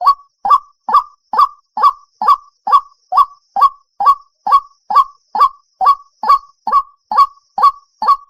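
White-breasted waterhen calling: an even, unbroken series of short pitched notes, about two to three a second.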